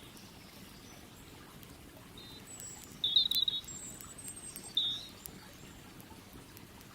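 A bird chirping: a few short high calls come about two to five seconds in, the loudest near three seconds. Under them run a steady low rush of river water and scattered small crackles from the campfire.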